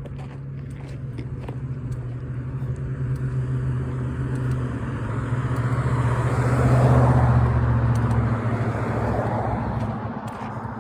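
A motor vehicle passing on the road: a low engine hum with tyre and road noise that grows louder to a peak about two-thirds of the way through, then fades away.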